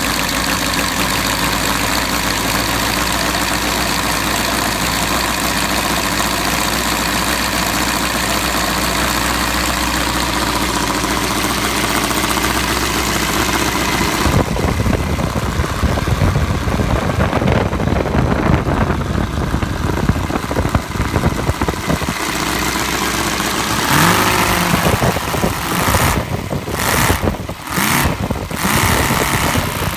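Arien seven-cylinder model radial engine running just after starting, at first with a steady even note. About halfway through its sound turns rougher and uneven, with changes in pitch near the end. The brand-new engine's top-end mixture is set really rich.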